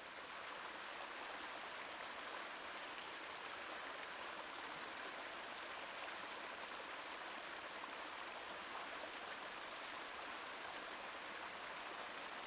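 Small waterfall on a forest stream: water rushing and splashing over rocks in a steady, even rush.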